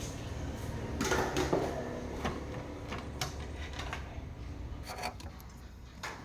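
Rubbing and scraping with scattered light clicks and knocks, as objects are handled, over a steady low hum.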